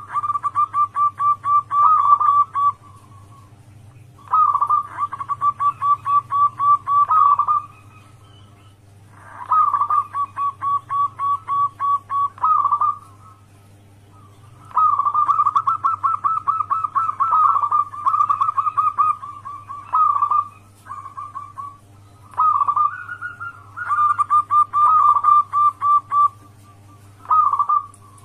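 Zebra doves (local perkutut) singing: repeated phrases of fast, clipped cooing notes, about four a second, each phrase lasting two to five seconds with short pauses between.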